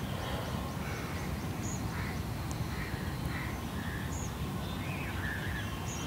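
Birds calling, short scattered chirps over a steady low background rumble.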